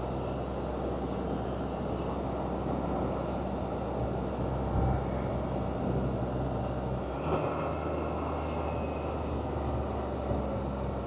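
Can-Am Spyder three-wheeled motorcycle running at a steady cruise, its engine hum under wind and road noise. The engine note changes about seven seconds in.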